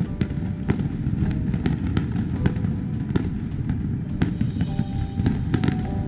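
Fireworks display: aerial shells bursting in frequent sharp bangs, one or two a second, over a continuous low rumble, with music playing held, changing notes underneath.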